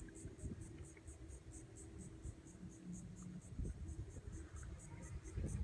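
Faint rustling and low knocks of handling noise in a kayak, over a steady high-pitched pulsing about four times a second.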